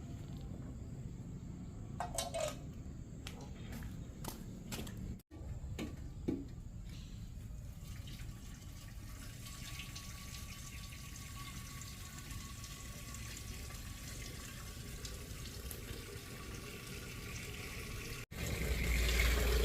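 Water running and splashing, with a few short clicks and knocks in the first few seconds. The sound cuts out abruptly twice, and after the second cut, near the end, a louder low rumble comes in.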